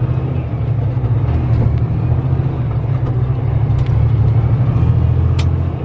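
Steady low drone of a semi-truck's diesel engine and road rumble heard inside the cab while driving, with one short click about five seconds in.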